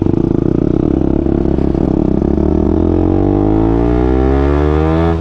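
KTM Duke 200's single-cylinder engine on its stock exhaust, pulling away under throttle: its note holds fairly steady for a couple of seconds, then climbs steadily in pitch as it accelerates, dropping right at the end.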